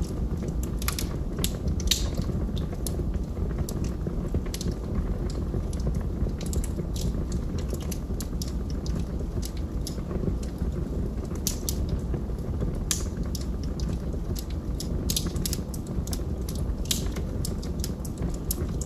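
Wood fire burning in a fireplace: logs crackling with frequent irregular pops over a steady low rumble of the flames.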